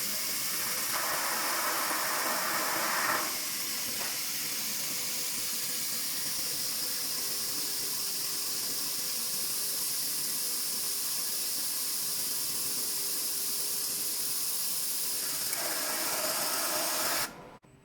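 Large-format fiber laser marking machine at work on a mirror, a steady hiss that swells twice briefly and cuts off suddenly near the end.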